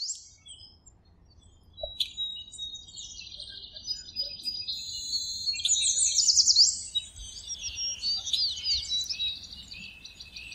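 Birdsong: several birds chirping and trilling, with quick sweeping whistles that grow busier and louder past the middle.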